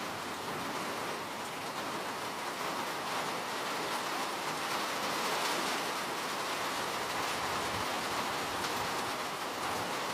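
Steady rain falling, a continuous even hiss with faint patter of drops.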